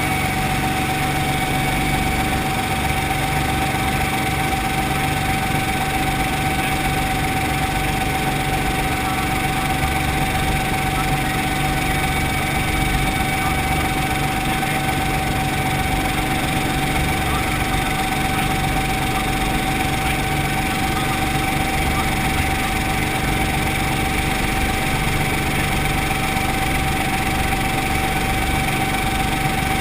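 Brantly B2B helicopter's four-cylinder Lycoming piston engine and rotor system running steadily at constant power, with a steady high whine over a low, even rumble.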